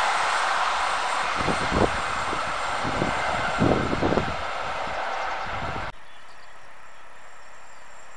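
A passenger train receding on the line: the steady rolling noise of wheels on rail slowly fading, with two pairs of knocks as wheels clack over rail joints. About six seconds in it cuts off abruptly to a much quieter steady hiss.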